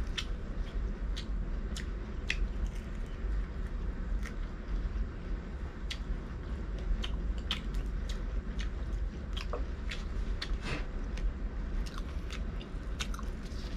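A person biting and chewing air-fried barbecue duck close to the microphone, with many sharp crunching clicks at uneven intervals over a steady low hum.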